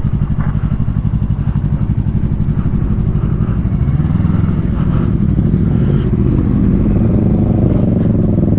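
Motorcycle engine running under way, its firing pulses steady and its pitch rising gently in the last few seconds as it picks up speed.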